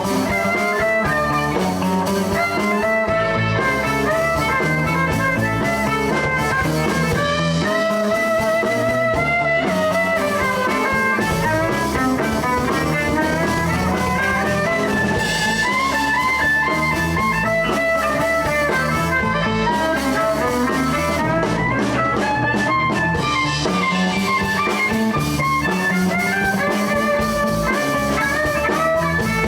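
Live blues band playing an instrumental passage: guitar lines over bass and drum kit, at a steady, even loudness.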